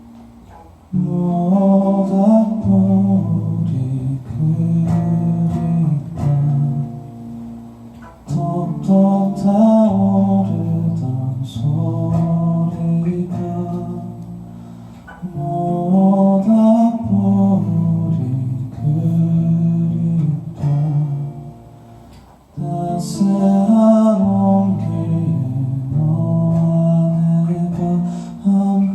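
Live band music: a guitar-led passage over a bass line, played in phrases that repeat about every seven seconds.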